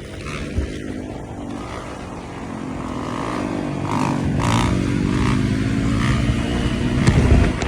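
Honda CRF450 dirt bike's single-cylinder four-stroke engine running, its pitch rising and falling with the throttle and growing louder towards the end.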